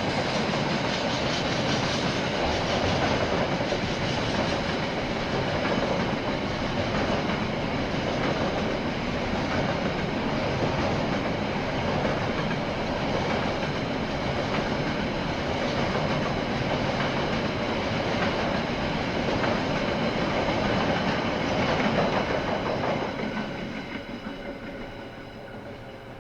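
KiwiRail train rolling past, its wheels running steadily along the rails, then fading away over the last few seconds as it moves off.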